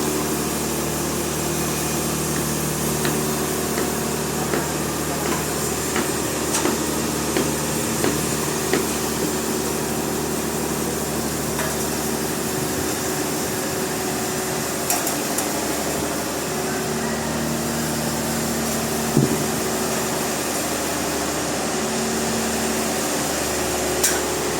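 Sawmill machinery running with a steady hum, with scattered knocks and clicks of wood and metal, the sharpest near the end.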